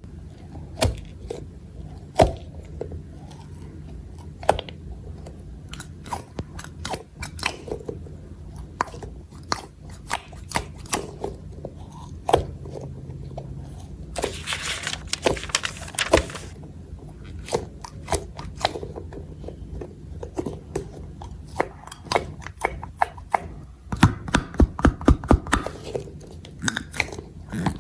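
Slime being squeezed and poked by hand, giving crisp, crunchy clicks and pops. About halfway through there is a rustling hiss lasting roughly two seconds, and a quick run of clicks comes near the end.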